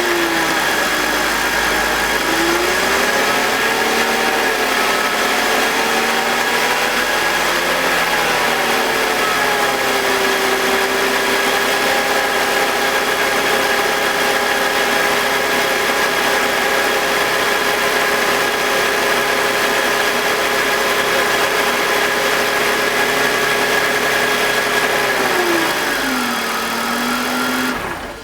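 BMW M52TU 2.5-litre straight-six idling just after a start. The VANOS solenoid is unplugged, and in this test the uploader reports no grinding noise and no RPM drop. The idle wavers up and down for the first several seconds, then holds steady, and the engine speed falls near the end.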